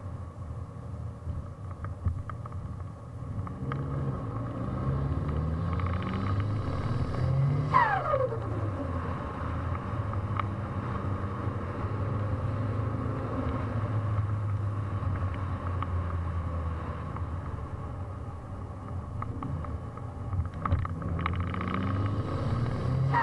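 Mitsubishi Lancer Evolution VIII MR's turbocharged 4G63 four-cylinder revved twice from idle, each rev ending as the throttle shuts with turbo flutter and a falling turbo whistle. Between the revs the engine idles steadily.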